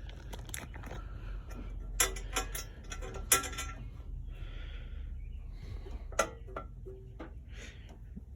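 Metal hand tools and engine parts clinking while bolts are fitted: a few sharp metallic clanks about two seconds in, again a second later and near six seconds, the first two ringing briefly.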